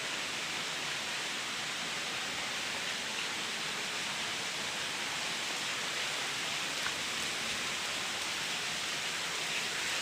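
Falling water at a waterfall: a steady, even rushing hiss with no distinct splashes or drops.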